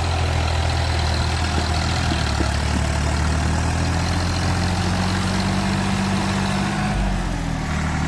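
Tractor engine idling steadily, with a low hum that rises slightly in pitch midway and settles back down about seven seconds in.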